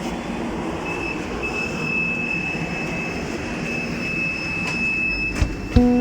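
MRT-3 metro train running, a steady rumble with a high steady squeal setting in about a second in and holding to the end. A couple of knocks and the start of music come in near the end.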